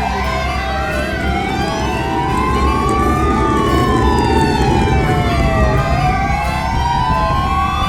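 Police car siren wailing in slow rising and falling sweeps, two wails crossing each other, over steady vehicle engine and road rumble. It cuts off at the end.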